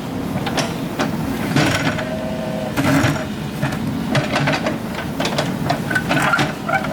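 Excavator engine running steadily, with frequent metallic clanks and knocks.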